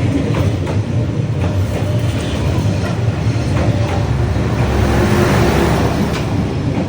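A train passing very close by, its cars rolling past with a steady loud rumble and occasional clicks from the wheels on the track.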